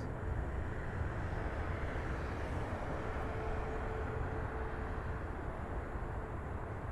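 Steady low rumble of distant jet airliner noise, with a faint steady hum joining in the middle and fading out again.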